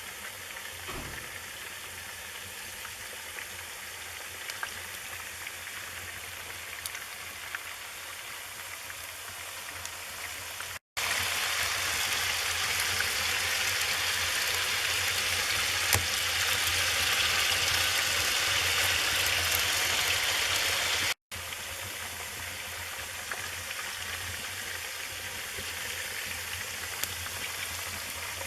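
Wood fire burning in a fireplace: a steady hiss with scattered crackles and pops of the burning logs. It cuts out briefly twice where clips are joined, and the middle stretch is louder and brighter.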